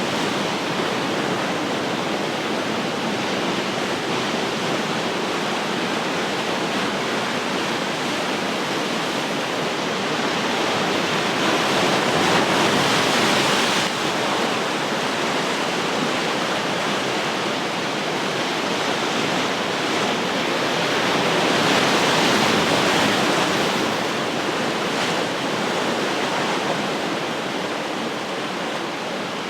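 Ocean waves breaking and washing on the shore, a continuous roar of surf that swells twice, about midway and again past two-thirds of the way.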